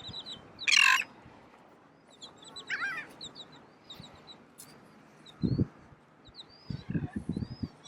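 Birds calling and chirping: one loud harsh call about a second in, another call near the middle, and many small high chirps throughout. A few low thumps come near the end.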